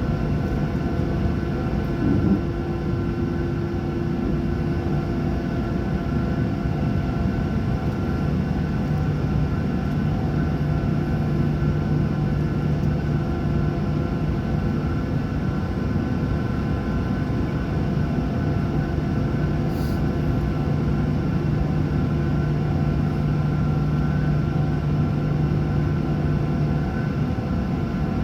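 Boeing 737-800's CFM56-7B jet engines running, heard inside the cabin as a steady drone with several steady tones. A low hum strengthens about a third of the way in.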